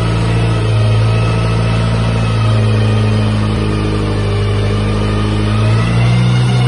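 Turbocharged engine of a 1986 Classic Mini running at steady revs on a rolling-road dyno, with a steady low note and a little change in tone near the end.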